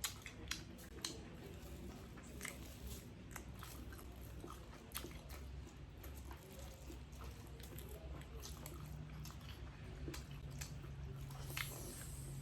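Faint chewing and eating noises from people eating grilled pork belly and kinilaw, with many scattered small clicks.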